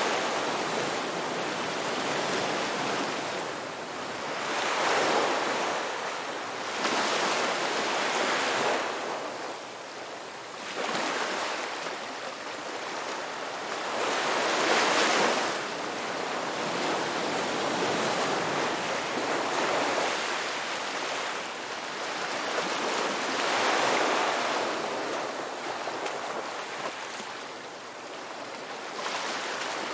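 Ocean waves breaking on a beach: a constant surf hiss that swells as each wave comes in and ebbs again, the surges arriving every few seconds at uneven intervals.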